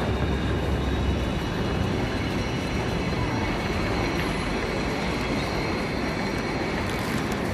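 Italo high-speed train running: a steady rumble and rushing noise with a faint high whine.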